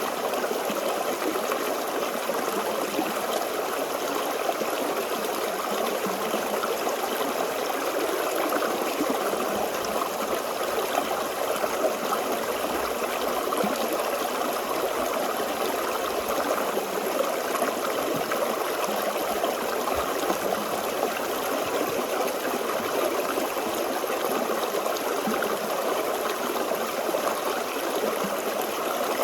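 A small forest stream flowing and trickling steadily, its burbling water most present in the middle and lower-middle range.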